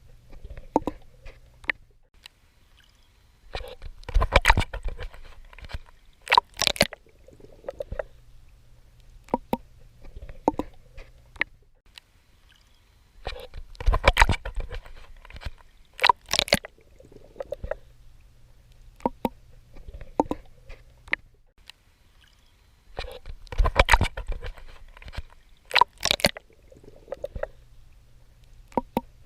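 Swimming in the sea, heard close at the water's surface: water sloshing and splashing with the strokes. Three times a pair of louder splashing surges comes about two seconds apart, and softer sloshes and a steady low hum lie between them.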